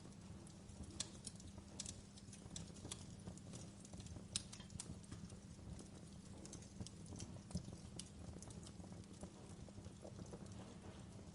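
Wood campfire crackling: irregular sharp pops and snaps, a few louder than the rest, over a steady low rumble of burning.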